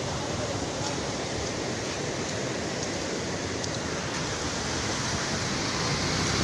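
Steady rushing of a river in heavy flood, a continuous even roar of fast water.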